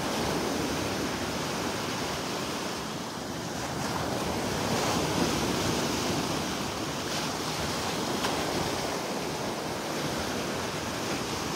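Gulf of Mexico surf washing onto the beach, a steady rush that swells a little about halfway through, with some wind on the microphone.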